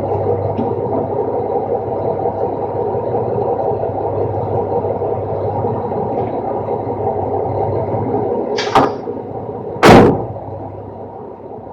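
Roll-off truck running with a steady mechanical drone, then two sharp bangs about a second apart near the end, the second the louder, after which the running sound drops away.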